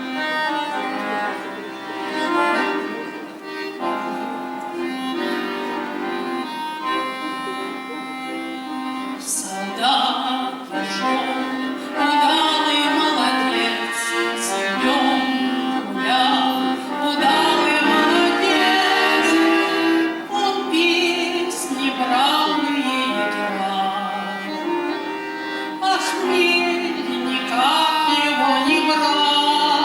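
Instrumental music led by an accordion, playing held chords and a melody, growing fuller and louder about ten seconds in.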